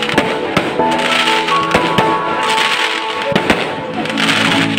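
Aerial fireworks going off in a series of sharp bangs and crackles, with music playing over them throughout.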